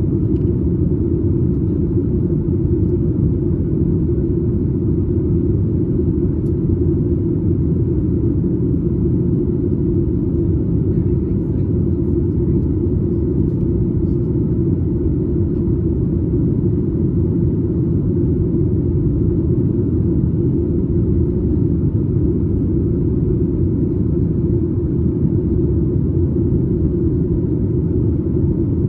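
Steady cabin noise of a Boeing 737 MAX 8 in flight, heard from a window seat just behind the wing: an even, low rush of airflow and engine noise that holds the same level throughout.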